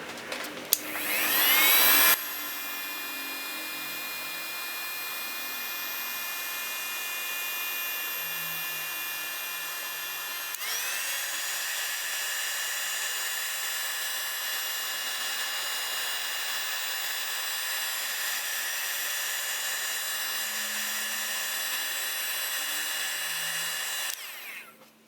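A small electric motor tool spins up with a rising whine, then runs steadily. Its pitch steps up about ten seconds in, and it stops about a second before the end.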